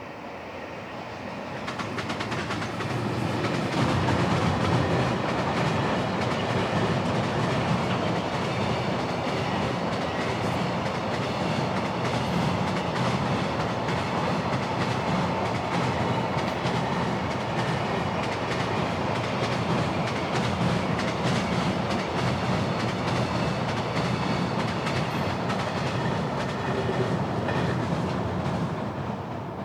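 Freight train passing, its wagon wheels clattering rhythmically over rail joints. The sound builds over the first few seconds, holds loud and steady, then falls away near the end as the train clears.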